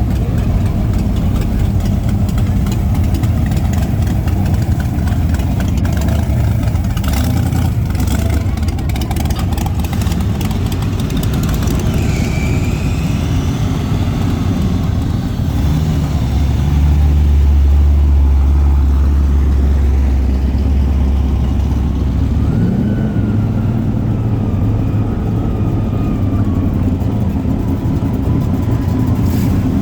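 Classic car engines running, with idling and revving. A louder, deeper engine dominates for several seconds about halfway through, then drops back.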